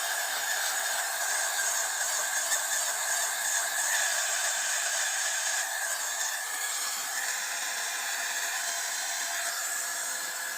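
Steady hiss of static from the Sanyo M9802AK radio cassette player's small speaker, thin with no bass; its tone shifts slightly a few times.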